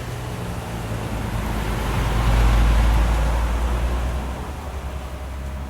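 A motor vehicle passing by: a low rumble and road noise that grow louder to a peak about halfway through, then fade away.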